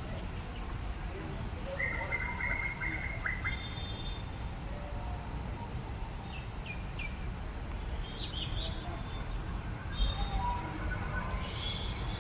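Outdoor ambience: a steady high-pitched insect drone, with short bird chirps and twitters scattered through it, a little cluster about two seconds in and again near the end.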